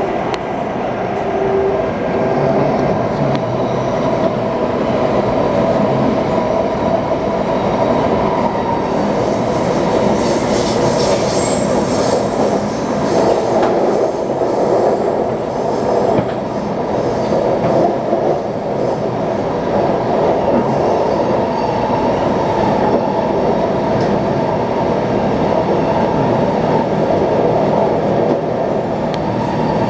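Taipei Metro C381 train running steadily between stations, with continuous wheel-on-rail running noise. A brief high-pitched squeal comes about eleven seconds in.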